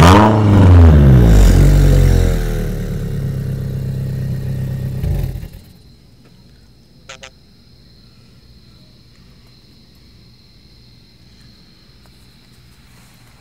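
Straight-piped 2012 Scion tC's 2.5-litre four-cylinder engine, running without a muffler, revved sharply once. The pitch falls back over about two seconds to a loud, steady idle. It stops abruptly about five seconds in, leaving a faint low hum.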